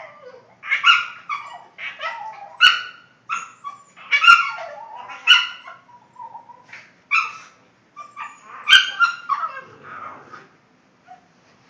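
Boston terrier making funny noises: a string of short barks, yips and whines that bend in pitch, stopping about ten seconds in.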